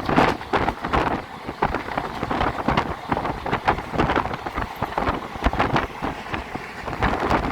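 Moving train heard from on board: a steady rush of wheels on track and wind on the microphone, with frequent irregular knocks and rattles from the wheels and carriage.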